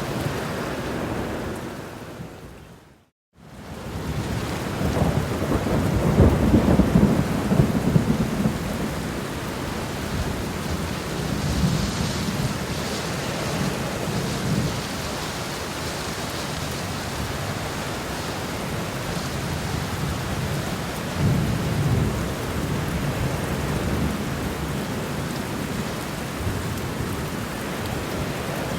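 Heavy rain pouring steadily, with low rumbling swells that build and fade several times. About three seconds in the sound fades out to silence for a moment and then returns.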